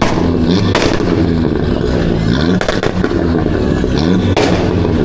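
Car engines revving hard, their pitch rising and falling as they accelerate, cut by four sharp cracks: one about a second in, two close together past the middle, one near the end.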